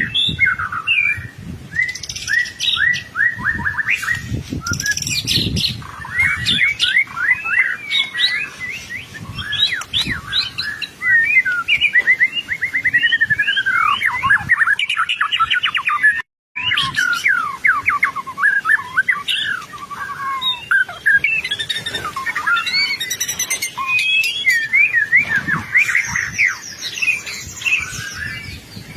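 White-rumped shama singing continuously in fast, varied phrases with rapid trills and sweeping notes. The song breaks off for a moment just past halfway.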